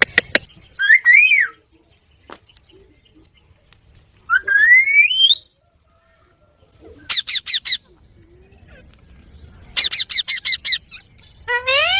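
Rose-ringed parakeet calling: a short call about a second in, a long rising call about four seconds in, then two quick runs of repeated high squawks around seven and ten seconds in, and another rising call at the end.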